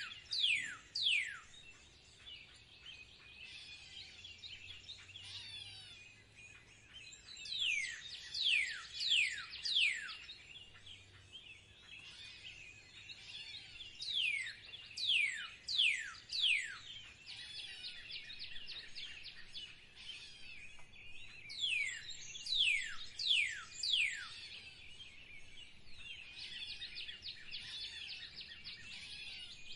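Songbirds calling: bouts of four or five sharp chirps, each sliding downward in pitch, come back every six or seven seconds over a continuous chatter of other small birds.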